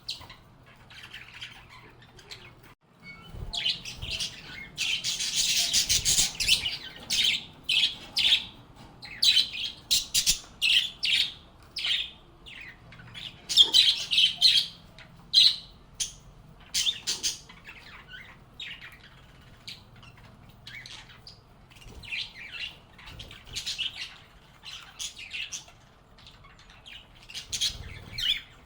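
Lovebirds (Agapornis) calling in quick, shrill chirps and squawks. The chatter thickens into a dense burst about five seconds in, with further loud flurries around ten and fourteen seconds.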